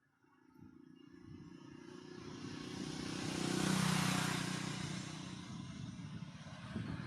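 A motor vehicle driving past: engine hum and tyre noise growing louder to a peak about four seconds in, then fading away.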